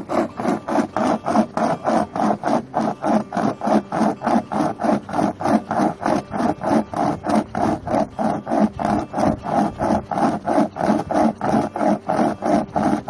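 Hand saw cutting through wood in fast, even back-and-forth strokes, about three or four a second.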